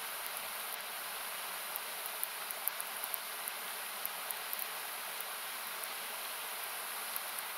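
Steady hiss of a nearby river or waterfall, with scattered sharp pops and crackles from a wood campfire.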